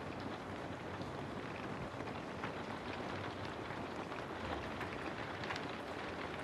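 Steady rain: an even hiss with many small drops ticking irregularly.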